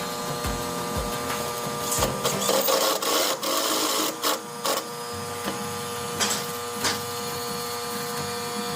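Electric power tool motor running steadily at a constant pitch, with intermittent knocks and scraping from the work.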